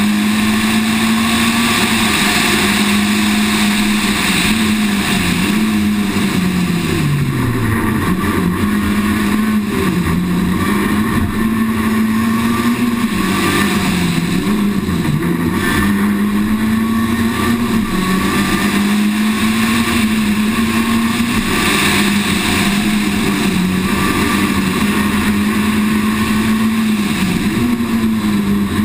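Citroën Saxo VTS rally car's four-cylinder engine driven hard, heard from on board: loud and held at high revs, with the pitch dipping briefly several times for lifts and gear changes and falling further about seven seconds in before climbing again.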